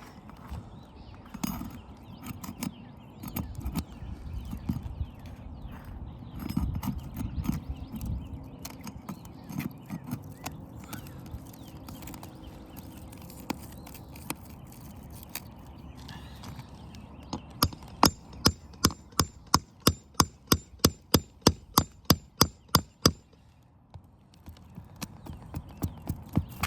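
Shingles scraping and rustling as a roof hip is worked apart, then a run of about twenty quick, even hammer taps, some three or four a second, lasting about five seconds.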